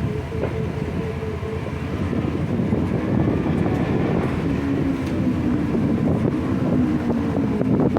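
Road traffic running past: vehicle engines and tyre noise, with one engine's hum appearing a few seconds in and slowly dropping in pitch.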